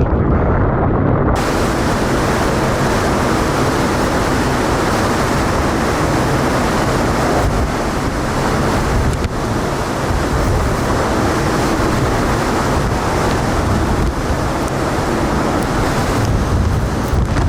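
Typhoon eyewall wind howling with torrential, wind-driven rain and spray, a loud steady rush with heavy wind rumble on the microphone. A brighter hiss joins abruptly about a second in.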